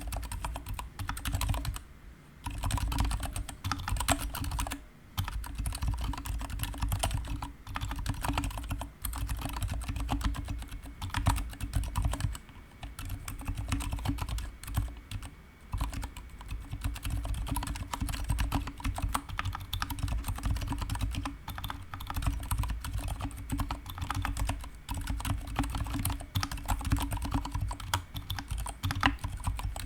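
Continuous typing on a GK61 mechanical keyboard with stock, unlubricated Gateron silent brown switches and PBT pudding keycaps: a fast, dense run of keystrokes, broken by short pauses about 2, 5 and 12 seconds in.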